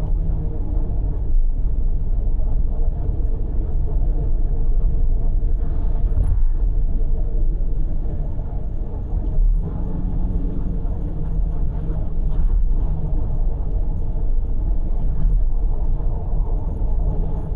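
Car's road and engine noise at expressway speed: a steady low rumble of tyres and engine.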